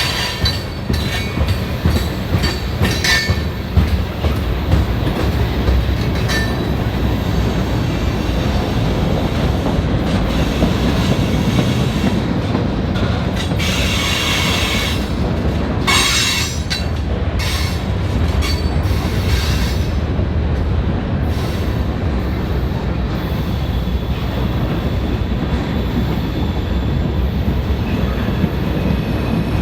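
Train cars rolling past close by: a steady heavy rumble of wheels on rail, with sharp clacks over the rail joints in the first few seconds and brief high wheel squeal about halfway through.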